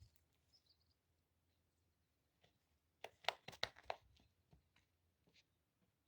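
Near silence, broken by a quick run of five or six faint, sharp clicks or knocks about three seconds in, with a few scattered ticks around them.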